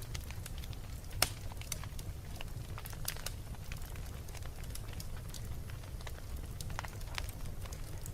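Wood fire burning in a fireplace: sharp crackles and pops at irregular intervals over a steady low rumble of the flames, with one louder pop about a second in.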